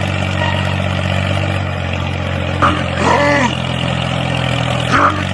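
A small motor runs with a steady low hum. Twice, about 2.7 s and 5 s in, a short call rises and falls in pitch over it.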